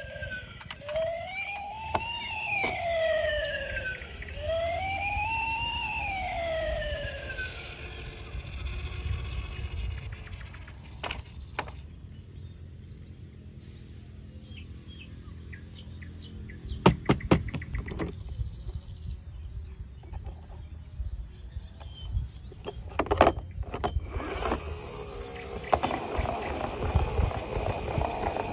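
Siren wailing up and down, about three slow rising and falling cycles, fading out about seven seconds in. Then scattered clicks and knocks, a few sharp ones about 17 and 23 seconds in, and a steady hiss from about 24 seconds in.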